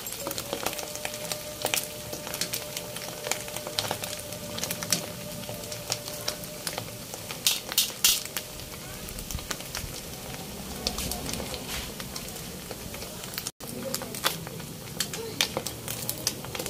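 Slices of maling (canned pork luncheon meat) shallow-frying in hot oil in a wok, a steady sizzle with frequent sharp pops and crackles of spattering oil. Near the end, tongs turn a slice in the pan.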